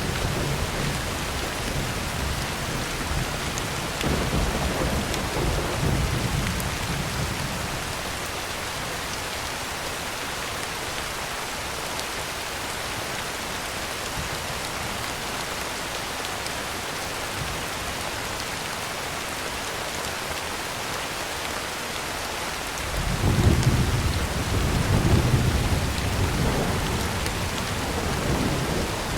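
Heavy rain falling steadily on a tin roof, with rolling thunder in the first several seconds and again from about three-quarters of the way through, loudest shortly after it returns.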